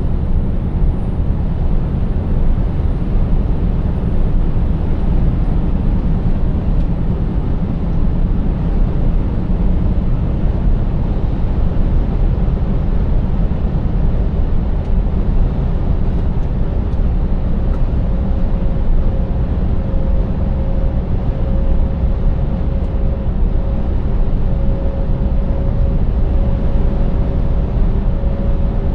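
Scania 590S V8 truck driving at steady speed: a continuous deep engine and road rumble. A faint steady whine joins in about halfway through.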